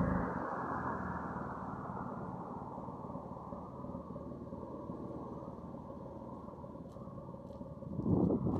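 Citroen C4 Cactus engine idling through an aftermarket Kraken Exhaust Works Powerbomb back box, a steady low exhaust rumble. The revs settle down in the first second, and there is a brief swell near the end.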